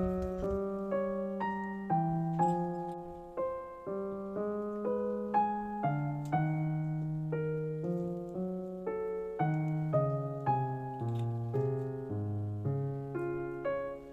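Background piano music, gentle notes and chords struck one after another and left to ring.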